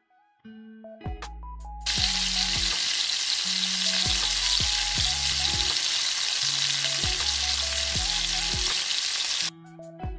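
Skewered beef gola kababs with onion and bell pepper sizzling as they fry in oil in a pan. The sizzle starts about two seconds in, holds steady and cuts off suddenly near the end.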